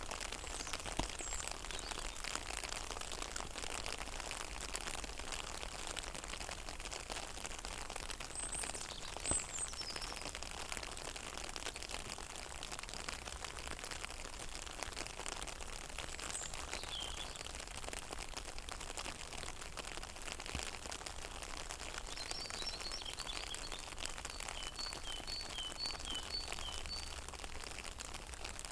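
Rain falling steadily on a pond, a dense, even patter of drops on the water. Small birds chirp now and then over it, with a run of short repeated chirps in the second half.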